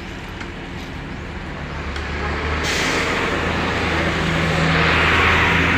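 Heavy truck running with a steady low engine hum. A rushing, hissing noise builds from about three seconds in and grows louder toward the end.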